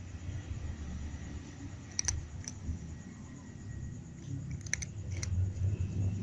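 Cat chewing and biting its food, with a few sharp clicks about two seconds in and again near the end.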